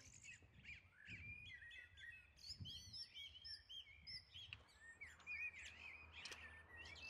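Faint birdsong: many short, quick chirps and tweets from small birds, scattered and overlapping.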